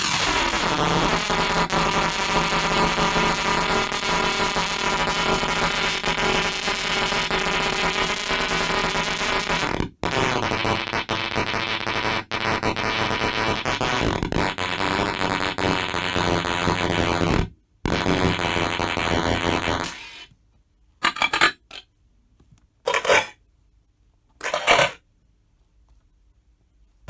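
Circuit-bent Sound Bites toy's pitch-bent samples played through a Roland Spirit 10A amp: a loud, dense, buzzing wall of glitchy noise with many stacked tones, cutting out briefly about ten seconds in. After about twenty seconds it breaks into a few short stuttering bursts separated by silence.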